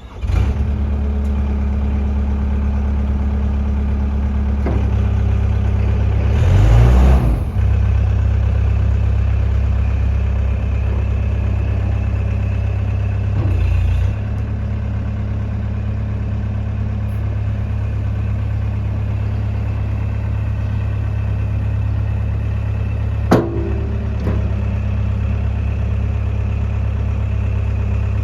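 Engine of an XCMG XC740K mini skid steer loader starting up and then running steadily. It revs up briefly about seven seconds in, changes again around fourteen seconds, and there is one sharp click a little over twenty seconds in.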